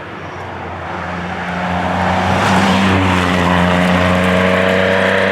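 Rally car engine approaching at speed, growing louder over about two seconds and then holding loud at a fairly steady pitch as it comes close.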